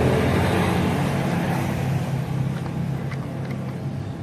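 A motor's steady hum that swells at the start and slowly fades, with a few light clicks near the end.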